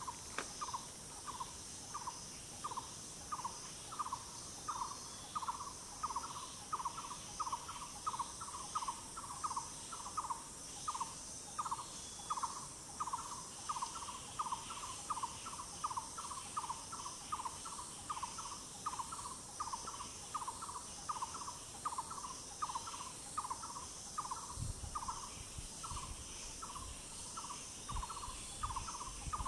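A bird calls one short, hollow note over and over, about two a second, without a break. Behind it runs the steady high drone of forest insects. A low rumble comes in near the end.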